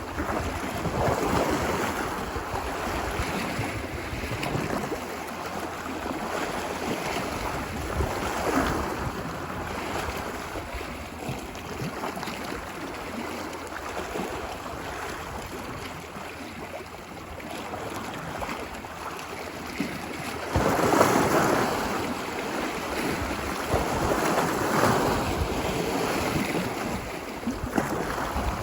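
Ocean waves breaking and washing up a beach, in slow swells of surf noise, the largest about 21 seconds in. Wind runs under it.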